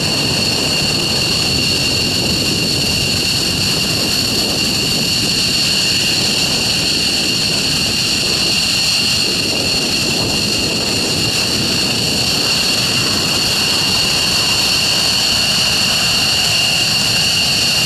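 Jet engines of F-15 fighters running on the ground while parked: a steady, loud roar with a piercing high turbine whine at two pitches.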